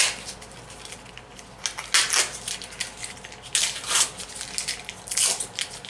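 Cylinder head of a Tecumseh H60 engine being set on the block and shifted into place, with a few separate metal clinks and knocks about two, three and a half, four and five seconds in.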